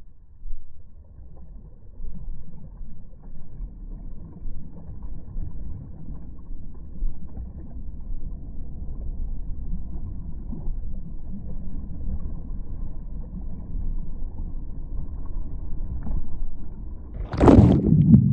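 Heavy surf rumbling in a steady low wash, with a much louder, harsher crash of a breaking wave near the end.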